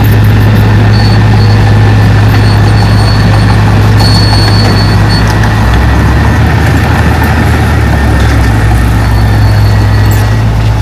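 Heavy diesel engine of an earthmoving machine, a bulldozer or dump truck, running steadily with a low drone. A deeper note joins for a few seconds midway.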